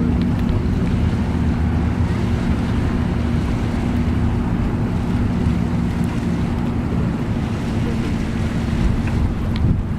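Boat engine running with a steady low drone, mixed with rushing water and wind buffeting the microphone.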